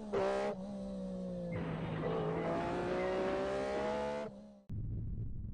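A car engine revving, its pitch rising slowly, with a noisier screech joining about a second and a half in. It cuts off suddenly about four and a half seconds in, leaving a low steady hum.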